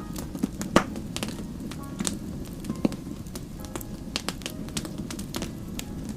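Wood fire crackling, with irregular sharp pops and snaps over a steady low rumble of the burning fire; the loudest pops come about a second in and near the middle.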